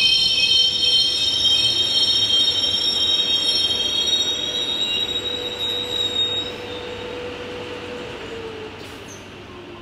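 Electric suburban train, an Alstom X'Trapolis 100, running on the rails with high-pitched wheel squeal. The squeal dies out partway through and the whole sound fades steadily, with a lower tone dropping in pitch near the end.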